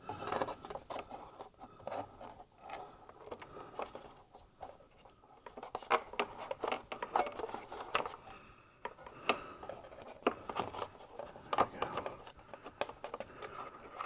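Irregular small clicks, taps and scrapes of computer parts and cables being handled and fitted back into an opened iMac.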